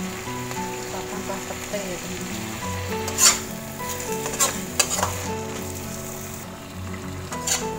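Sambal sizzling in a wok as fried hairtail pieces are stirred with a metal spatula, the spatula scraping and clinking against the pan a few times, the sharpest strike about three seconds in.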